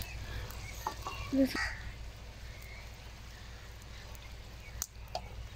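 Chicken karahi sizzling faintly in a metal pot over a wood fire as yogurt is poured into the hot curry, with a single click near the end.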